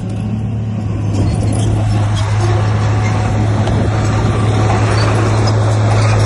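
A heavy construction machine's diesel engine running steadily, a constant low drone under a dense rumble.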